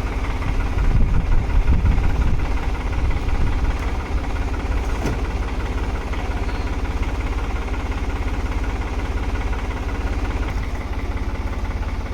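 Tractor engine running steadily with a low, fast chugging rumble that swells a little louder early on.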